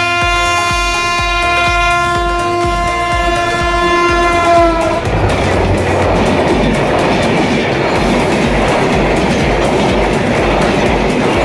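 A diesel locomotive's horn sounds one long chord as it approaches, dipping slightly in pitch and cutting off about five seconds in as the engine passes. Then intercity passenger coaches rush past at speed, their wheels running on the rails.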